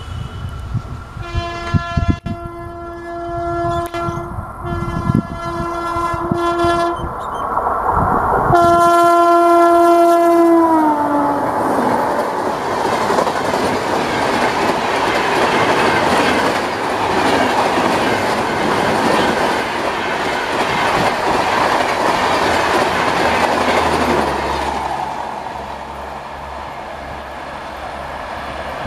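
A WAP-5 electric locomotive's multi-tone horn sounds in long blasts as the train approaches, and its pitch drops as the locomotive passes about ten seconds in. Then comes the steady rush of the Shatabdi express's coaches going by at about 120 km/h, easing off near the end as the train recedes.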